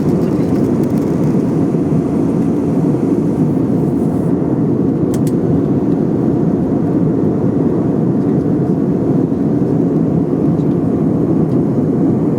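Airliner cabin noise: the steady, even roar of the jet engines and the airflow over the fuselage, heard from a passenger seat.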